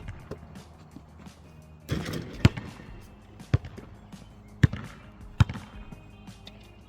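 Basketball bouncing on hard ground: a thud right at the start, then four more thuds spaced about a second apart from about two and a half seconds in.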